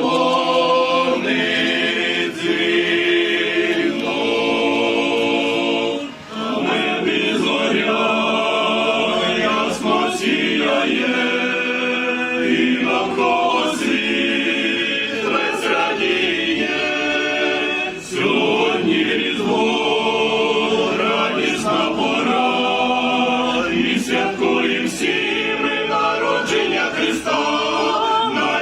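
Choir singing a Ukrainian Christmas carol (koliadka) in several voices, with short breaks between phrases about six seconds in and again near eighteen seconds.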